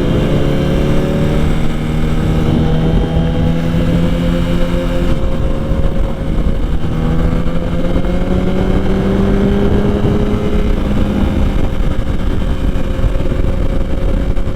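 Motorcycle engine under way, its pitch climbing slowly, dropping at a gear change about five seconds in, then climbing again and levelling off, with heavy wind noise on the microphone.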